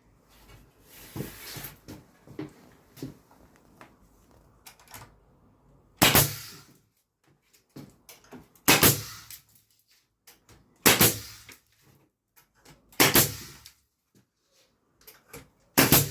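Concrete nail gun firing nails through wooden furring strips into a concrete ceiling: five sharp, loud shots about two seconds apart, starting about six seconds in. Quieter handling and scraping noises come before the shots.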